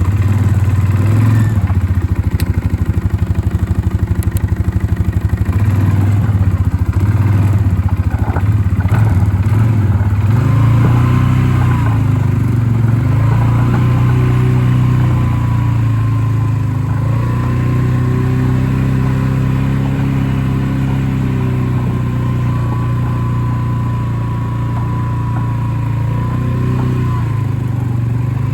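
Small vehicle engine running steadily at low speed. From about ten seconds in, its pitch rises and dips gently.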